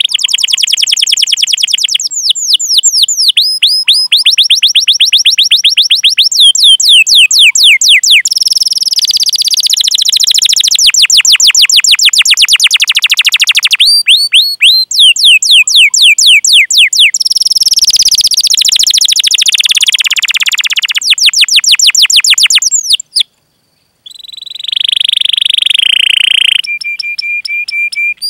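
Domestic canary singing a long song of rolling trills: fast runs of repeated sweeping notes that switch pace and pitch every few seconds, with some steady whistled notes and a brief break near the end.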